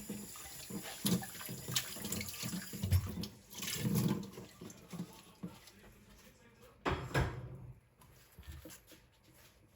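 Water running in a kitchen sink with knocks and clinks of dishes during final rinsing and sink clean-up. The water stops about halfway through, leaving quieter handling and one brief louder noise about seven seconds in.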